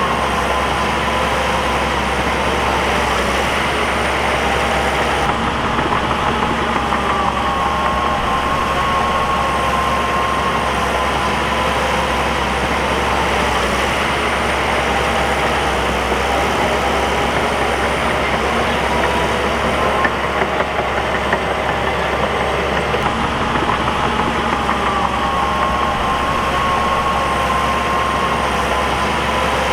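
Bulldozer diesel engine running steadily, its pitch drifting slightly up and down at times.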